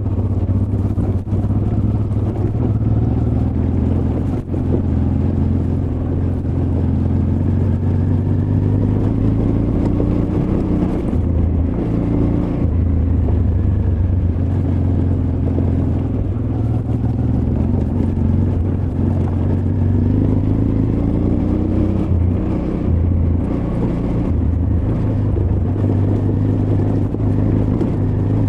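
Honda Transalp XL600V's V-twin engine running steadily while the bike is ridden off-road. Its pitch rises and falls a little with the throttle, and there are a few sharp knocks in the first few seconds.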